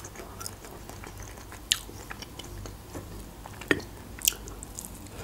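Close-miked chewing and wet mouth sounds of someone eating, with a few short sharp clicks.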